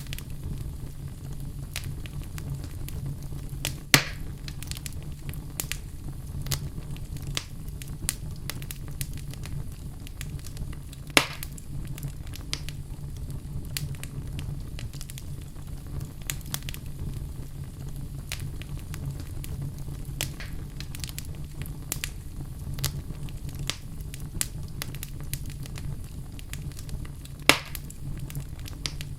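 Wood fire burning in a fireplace: a steady low rumble of the flames with constant small crackles and three loud sharp pops, about 4, 11 and 27 seconds in.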